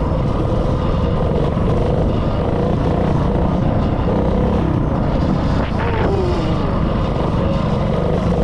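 Mini bike's 196cc single-cylinder four-stroke engine running steadily with a heavy low rumble. About six seconds in, its pitch falls briefly.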